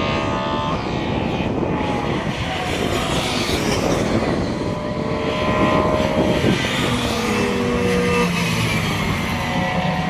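Several rally car engines running and revving at once, their pitches rising and falling over one another.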